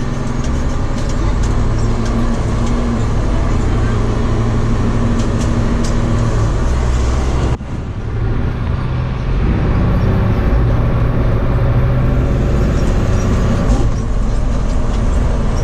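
Fire truck engine running steadily under way, heard from inside the cab with road and tyre noise. The sound drops out briefly about halfway through, then carries on.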